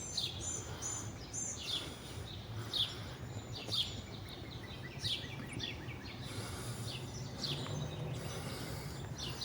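Songbirds chirping, with short falling chirps about once a second and a few brief high whistled notes near the start, over a steady low background rumble.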